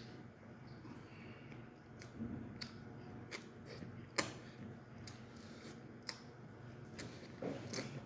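Someone chewing and biting into chicken, with irregular short crisp crackles about once every half second to a second.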